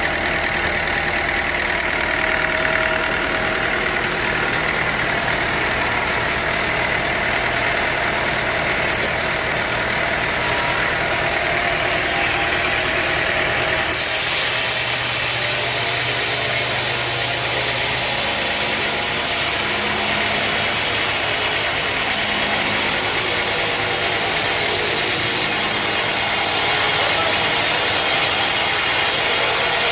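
Sawmill machinery running steadily: a continuous engine-like drone under a strong hiss. The sound shifts abruptly about halfway through, brighter and hissier, and changes again near the end.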